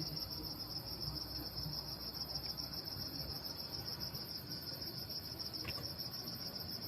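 Crickets chirring: a continuous high, finely pulsing trill.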